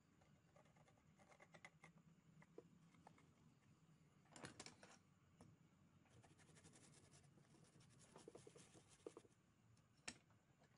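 Faint scratching of a small hand tool against a circuit board, picking off leftover corrosion, in short scraping spells with a sharp tick near the end.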